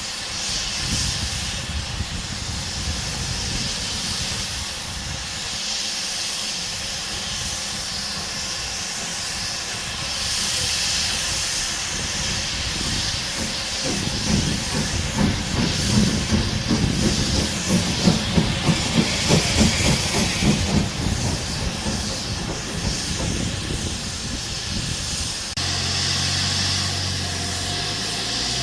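Steam locomotive hissing steadily. About halfway through, a rhythmic chuff at about two beats a second joins in. Near the end the sound changes abruptly to a low steady hum.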